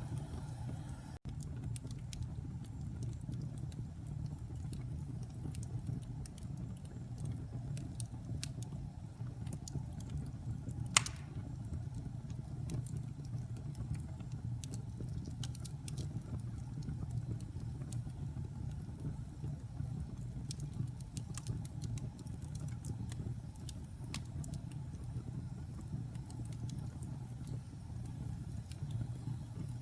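Wood fire burning in a fireplace: a steady low rumble with scattered light crackles, and one sharp, louder pop about eleven seconds in.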